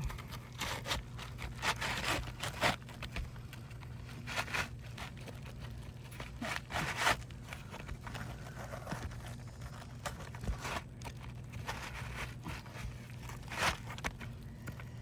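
Asphalt roofing shingles being handled and slid into place: irregular scraping and crunching of the gritty shingle surfaces rubbing against each other.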